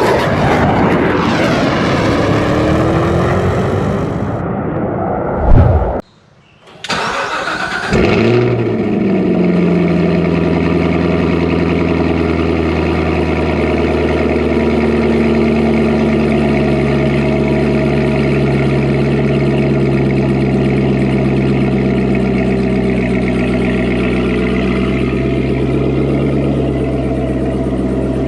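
A loud, noisy stretch with a short rising whine cuts off abruptly about six seconds in; after a brief near-silent gap an engine starts with a jump in level and then runs at a steady idle.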